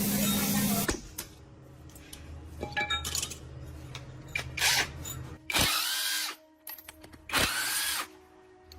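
A loud hiss of compressed air stops about a second in. Then a power tool runs in three short bursts, each spinning up and winding down, between light clinks of metal.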